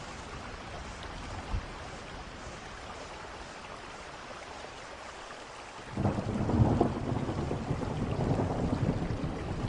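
Steady rain falling, then about six seconds in a roll of thunder breaks in and rumbles on, low and loud, over the rain.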